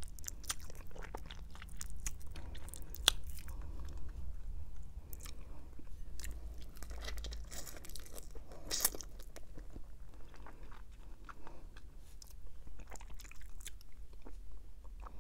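Close-miked chewing and biting on a crispy roasted chicken wing, with frequent crunches and sharp mouth clicks; a louder crunch comes about 3 seconds in and another about 9 seconds in.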